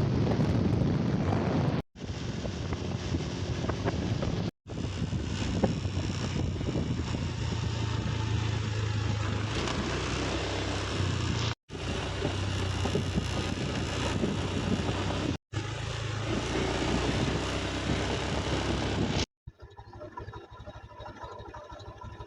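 A vehicle engine running steadily, with wind rushing over the microphone, in several short clips joined by abrupt cuts. The last few seconds are quieter.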